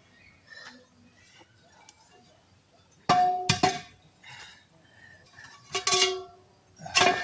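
Metal tools clanking against metal, each strike leaving a short ringing tone. There is a pair of clanks about three seconds in, then two more near the end.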